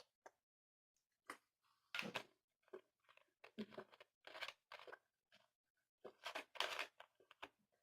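A series of short, quiet crinkling and rustling sounds, close up, the loudest about two seconds in and a cluster near the end.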